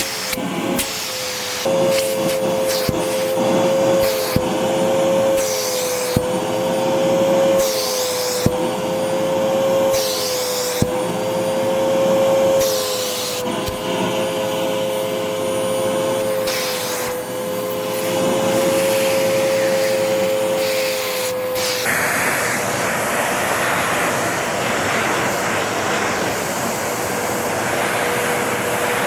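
MOOSOO upright pet vacuum running with its crevice tool on the extension wand, a steady whine with a slight wobble and short rasps every couple of seconds as the nozzle sucks dog hair off a couch cushion. About two-thirds of the way through, the whine drops away and the sound turns to an even rush of air.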